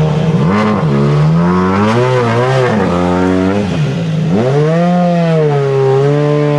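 M-Sport WRC rally car engine revving while the car is held, the pitch swinging up and down in several blips and long held revs.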